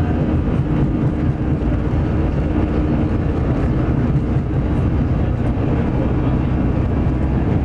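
Steady jet engine drone and airflow noise inside an airliner cabin, heard from a front-row seat.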